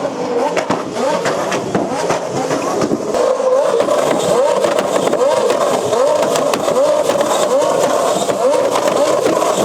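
Car engine revving over and over, its pitch rising again and again in quick succession, with sharp crackles and pops through it.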